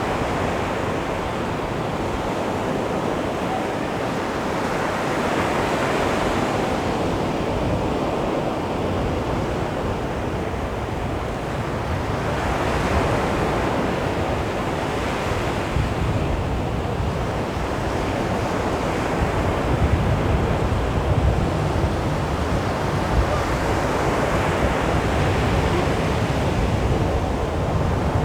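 Calm sea waves breaking and washing up a beach, the surf swelling and easing about every six seconds, with wind buffeting the microphone.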